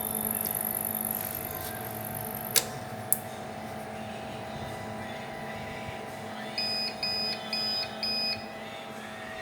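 An APC UPS beeping four times in a row, short even beeps, after two sharp clicks, over a steady electrical hum.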